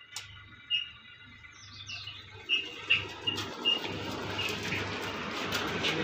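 Birds chirping in short repeated calls, with a few sharp clicks. From about two and a half seconds in, a steady rushing noise builds up underneath and keeps going.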